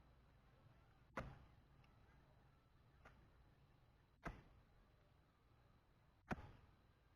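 Three sharp knocks about two seconds apart, each dying away quickly, over near silence.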